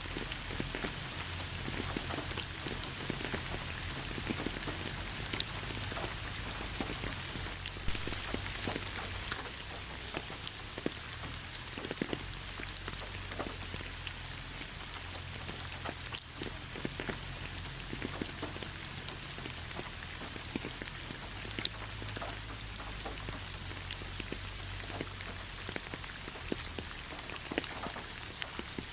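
Steady rain falling, a constant hiss with many separate drops ticking and pattering on a hard surface close by.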